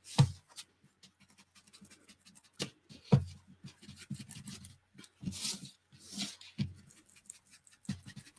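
Paper and craft materials being handled on a tabletop: irregular rustling and scraping, with two sharp taps, about a quarter second in and about three seconds in.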